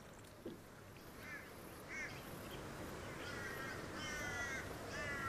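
Birds calling: two short calls, then from about halfway a run of longer, drawn-out harsh calls repeated several times.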